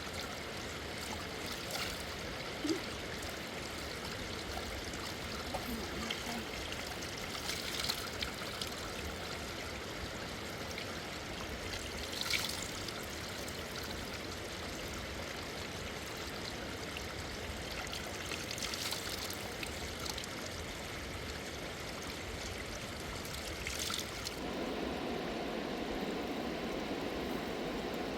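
Rushing river water: a steady rush, broken by a few brief splashes or knocks. About 24 seconds in, the rush turns lower and fuller.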